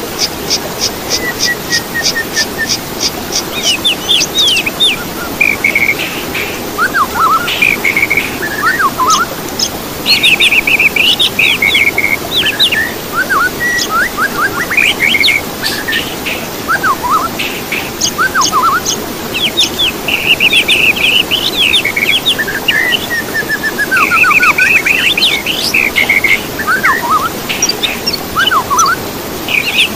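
Songbirds singing and calling in a dense, overlapping mix of varied whistles, trills and rapid chirp series, over a steady background rush.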